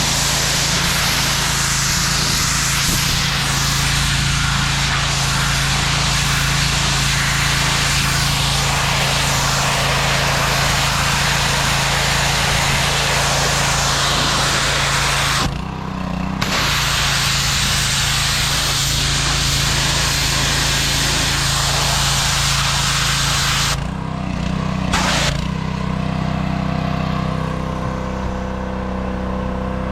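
A machine running steadily: a low, even engine-like hum under a loud hiss. The hiss cuts out briefly about fifteen seconds in and again near the end, leaving the hum.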